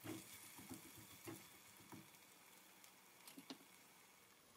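Freshly added diced onion and garlic sizzling faintly in hot olive oil, with a scatter of soft crackling ticks that fade away; the onion is cooking until it sweats.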